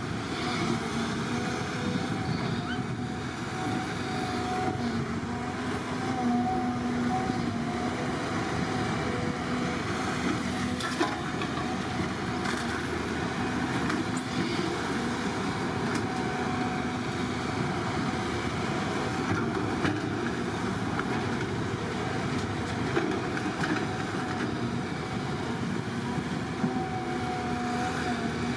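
Diesel engine of heavy earthmoving machinery running steadily, with a few sharp metallic clanks.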